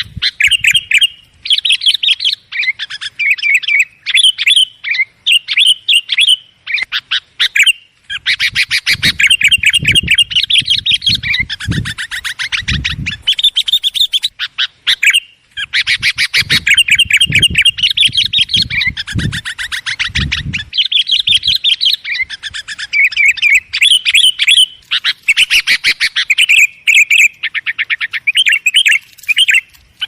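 Sooty-headed bulbuls (kutilang) calling noisily, a rowdy run of chirps and bubbling notes of the kind used as a lure to draw other bulbuls in. There are long, fast trilled chatters about eight seconds in and again around sixteen seconds.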